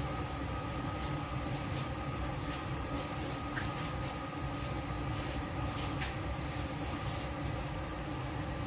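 Steady low rumbling hum with a faint steady whine over it, with a few light clicks partway through.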